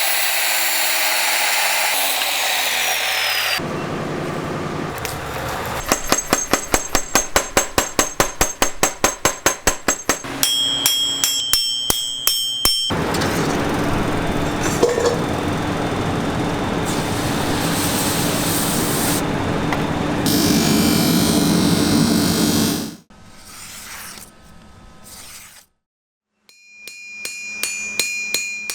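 Knife-forging workshop sounds in quick succession: power-tool grinding noise, a run of evenly spaced hammer strikes on steel at about three to four a second, and ringing metal clinks near the end.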